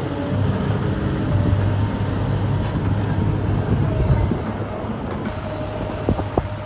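Large excavator's diesel engine running steadily under load, with a thin high whine over the low engine note and a few sharp knocks near the end.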